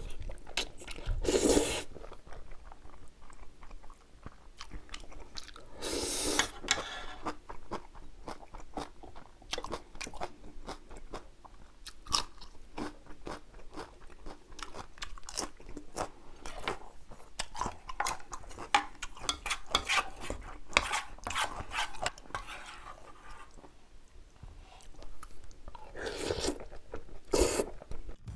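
Close-miked chewing and crunching of spicy jjapagetti noodles and kimchi in an eating-show recording, with many small wet clicks. Four short noisy slurps or bites stand out: one near the start, one about six seconds in, and two near the end.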